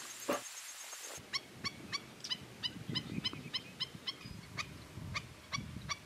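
Black-necked stilt calling: a steady series of short, sharp notes, about three a second, starting about a second in.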